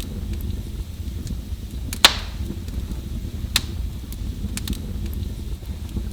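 Wood fire burning in a fireplace with a low steady rumble and irregular crackles. A loud sharp pop comes about two seconds in, and a second about a second and a half later.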